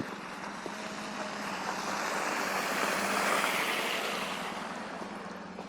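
A road vehicle passing on a snow-covered street: its tyre and road noise swells to a peak about three seconds in, then fades away.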